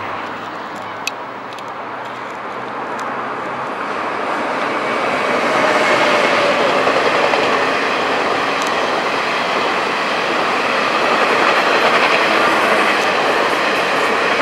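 Taiwan Railway E1000 push-pull express train running past on the main line. Its rumble of wheels and carriages builds over the first few seconds as it nears, then stays loud as the carriages go by.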